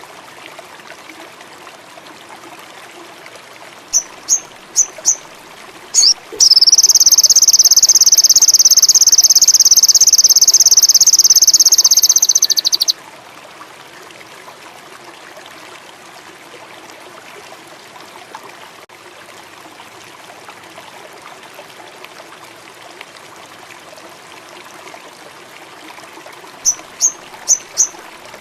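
Sogon indigo songbird singing: a run of short, high chirps, then a loud, fast, high trill held for about six seconds that stops abruptly. Another run of short chirps comes near the end, over a faint steady hiss.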